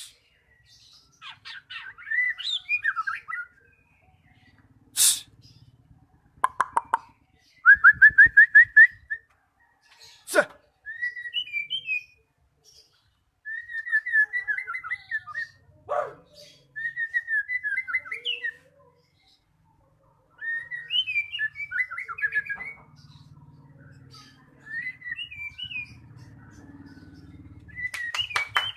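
White-rumped shama (murai batu) singing: a varied run of whistled phrases, fast trills and chattering strings of repeated notes, broken by short pauses.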